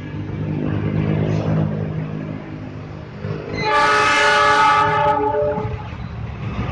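Diesel locomotive of a passing express train: a low engine and rail rumble, then the locomotive's horn sounds about three and a half seconds in, a loud multi-note chord held for over a second before it fades.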